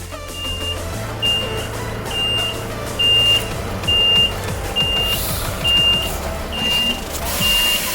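Soil delivery truck reversing: its backup alarm beeps nine times at an even pace, a little under once a second, over the steady low run of the truck's engine.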